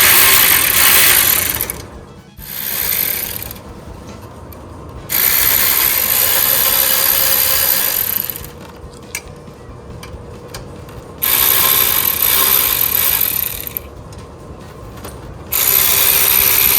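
Ratchet wrench clicking in five bursts of one to three seconds, with short pauses between, as engine-mount bolts are driven.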